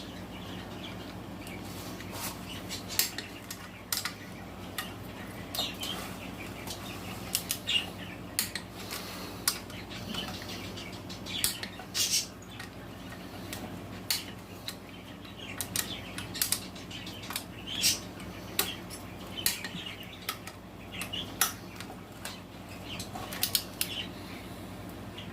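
Torque wrench ratcheting on engine cylinder head bolts as they are tightened to 10 foot-pounds: irregular sharp metallic clicks, a few a second, over a steady low hum.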